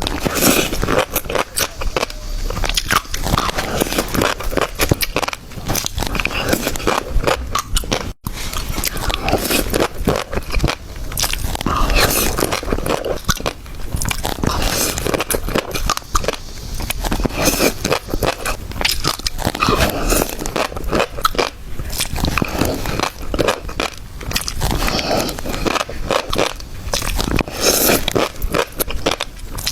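A person biting and chewing shrimp topped with fish roe, mukbang-style, with many rapid clicks throughout and a brief break about eight seconds in.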